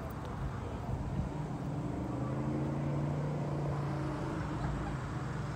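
A car engine idling steadily, its low hum getting a little louder about two seconds in.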